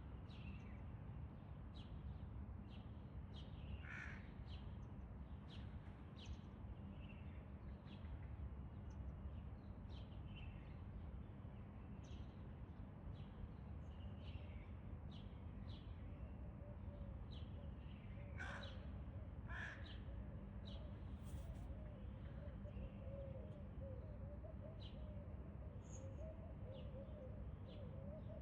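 Outdoor ambience with birds calling: short high chirps scattered throughout, a few louder harsh calls now and then, over a steady low background rumble.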